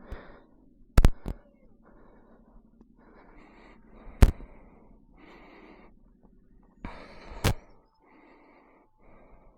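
A person breathing hard, one breath after another. Sharp clicks or knocks come about a second in, at about four seconds, and at about seven and a half seconds.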